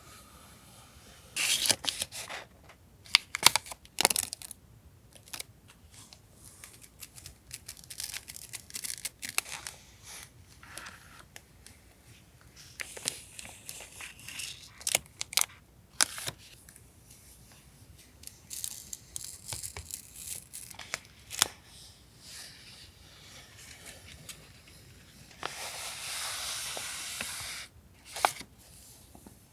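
Paper and plastic stationery packets being handled: scattered crinkles, rustles and light taps, with short tearing sounds, and one longer tearing or peeling sound lasting about two seconds near the end.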